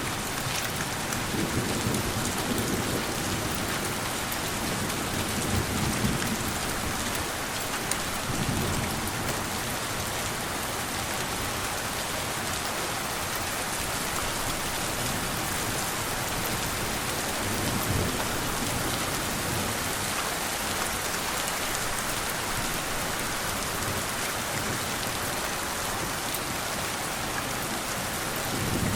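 Steady rain falling, with a few brief low rumbles of gentle distant thunder.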